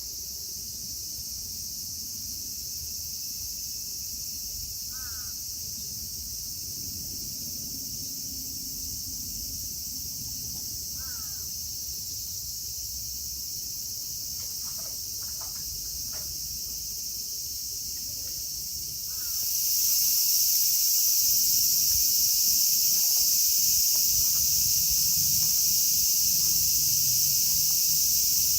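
Cicadas singing in a chorus, a steady high-pitched shrill drone that swells markedly louder about two-thirds of the way through as more cicadas join in.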